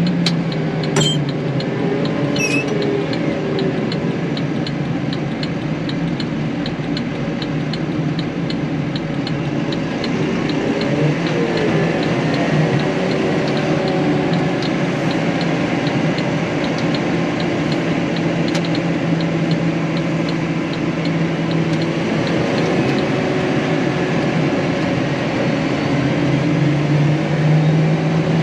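Tractor engine running steadily, heard from inside the cab, with a faint regular high ticking over it.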